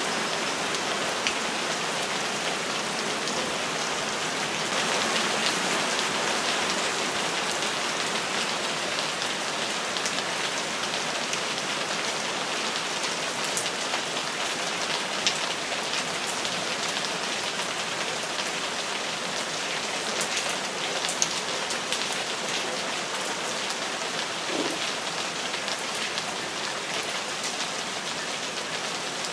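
Steady rain falling: an even hiss with a few sharper ticks of drops landing close by.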